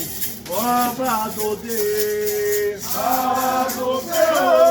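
A sung chant for the orixá Xangô, with long held notes that slide between pitches, accompanied by a rattle shaken in a steady rhythm.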